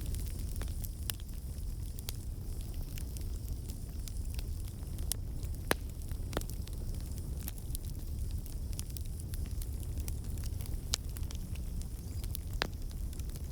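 Campfire burning: a steady low rumble and hiss with irregular crackles, a few sharper pops standing out among them.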